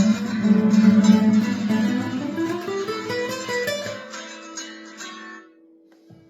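Spanish guitar improvisation: dense strummed and plucked playing climbs in a rising run of notes, then settles on a final chord that rings and fades away about five seconds in.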